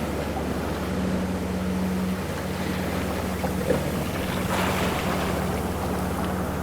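Ocean waves washing, with one wave surging about four and a half seconds in, over a steady low motor drone that holds a constant pitch throughout.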